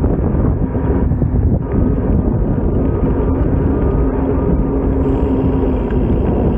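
Wind buffeting the microphone in a steady low rumble, with a faint engine hum underneath from about two seconds in until near the end.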